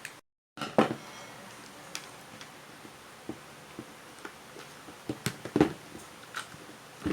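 Scattered clicks and knocks of hard plastic parts being handled and pried during the disassembly of a vacuum cleaner. The loudest knocks come about a second in and again around five to six seconds in.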